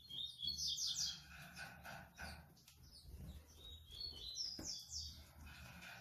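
Songbirds chirping in the background: quick runs of short, high, downward-sliding notes, one run near the start and another about four to five seconds in.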